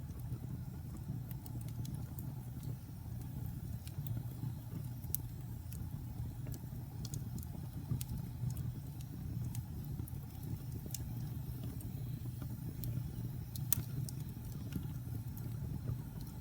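Wood fire burning in a fireplace: a steady low rumble of flames with scattered sharp crackles and pops, one louder pop late on.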